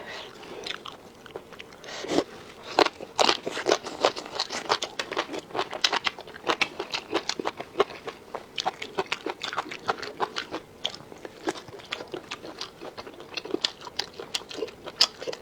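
A person chewing and crunching food close to the microphone: quick, irregular mouth clicks and crunches, several a second.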